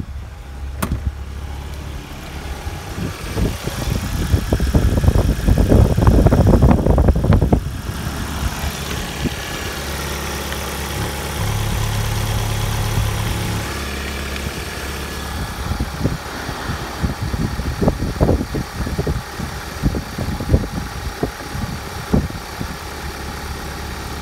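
Opel Astra F's 1.8-litre 16-valve X18XE four-cylinder petrol engine idling steadily with the bonnet open. A deeper hum comes in for about two seconds around the middle, while the oil filler cap is off, and loud rubbing and knocks of handling noise come a few seconds in and again later.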